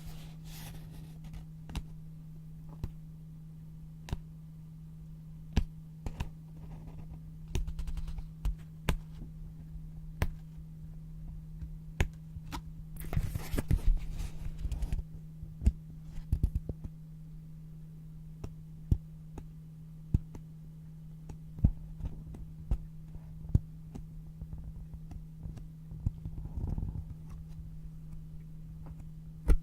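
Scissors cutting through yellow paper in short, separate snips, roughly one a second, with a longer stretch of paper rustling about 13 seconds in. A steady low hum runs underneath.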